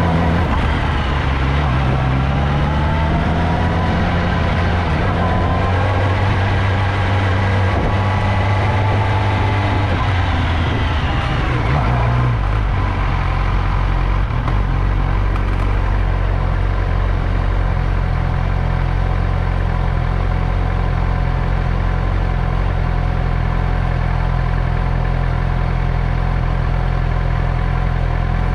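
Motorcycle engine running, its pitch rising and falling for roughly the first twelve seconds, then settling to a steady idle.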